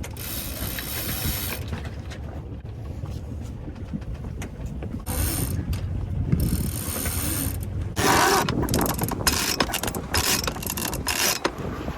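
A sailboat winch ratcheting in several spurts of rapid clicking as the mainsail halyard is winched in to hoist the main, over a steady low rumble.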